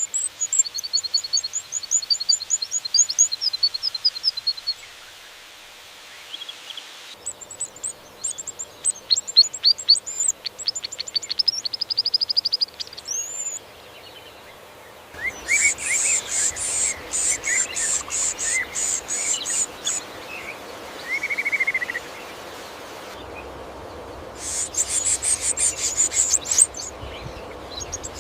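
Birdsong: four stretches of rapid, high-pitched chirping and trilling, each a few seconds long and breaking off abruptly, with a steady faint hiss between them.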